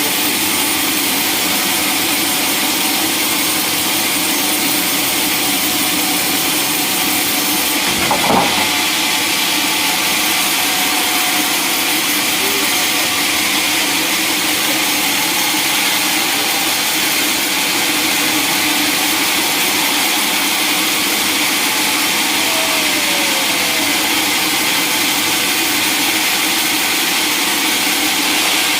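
Sawmill machinery running steadily, with a high, even mechanical noise and a single knock about eight seconds in.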